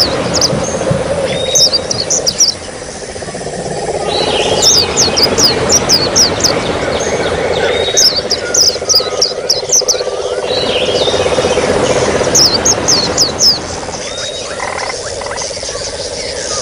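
White-eyes (pleci) singing in bursts of quick, high chirps every few seconds, over trickling water and a steady insect-like drone.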